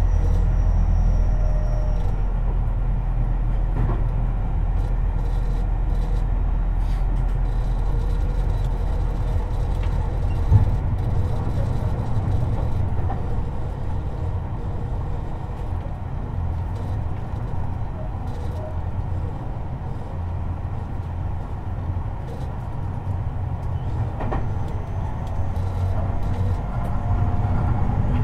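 Tobu 50090 series electric train running, heard from under the car floor: a steady rumble of wheels on rail, with a single sharp knock about ten seconds in. Faint high tones sound near the start and again near the end, as the rumble grows louder.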